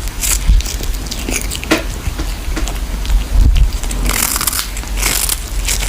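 Irregular crunching and crackling of an animal chewing something crunchy.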